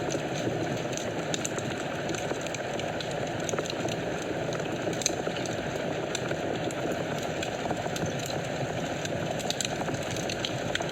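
Wood fire burning in a fireplace: a steady hiss of flames with scattered small crackles and pops, one sharper pop about five seconds in.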